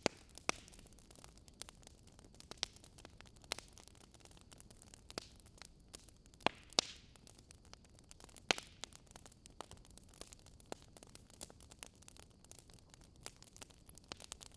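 Wood fire crackling: irregular sharp pops and snaps over a soft steady hiss, with the loudest snaps in the middle of the stretch.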